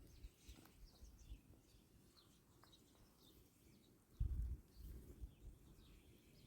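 Faint small bird chirps, short falling notes repeated throughout, with a brief low rumble or thud about four seconds in.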